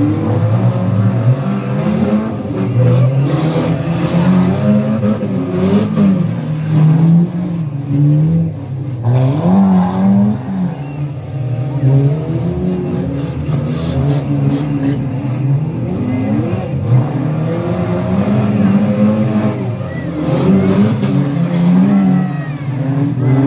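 Several stock car engines racing at once, their notes repeatedly rising and falling as the cars accelerate and lift off around the track.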